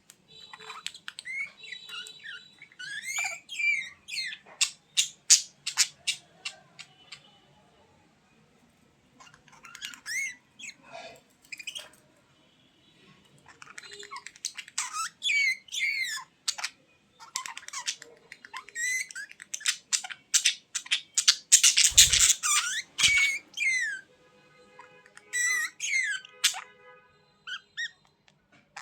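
Budgerigars chattering, chirping and squawking in bursts of rapid warbling, with short pauses between. A brief low thump comes about three-quarters of the way through.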